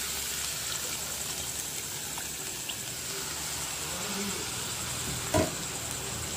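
Masala frying in a wok sizzles steadily as a little water is added to it, with a steel spoon stirring. A single short knock comes about five seconds in.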